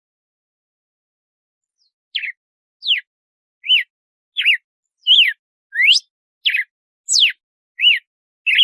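Red-cowled cardinal (galo-de-campina) singing its 'açoite' song: after about two seconds of silence, a run of about ten short whistled notes, each a quick slide up or down and some arched, about one and a half a second.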